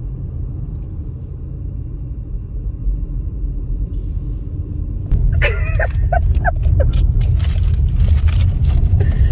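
Low, steady rumble of a car on the road heard from inside the cabin, getting louder about five seconds in.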